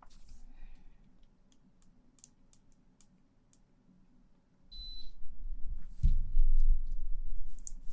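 Faint scattered clicks, then a short high beep just before five seconds in. After that comes loud, low rumbling with thumps: close-up rustling against the microphone.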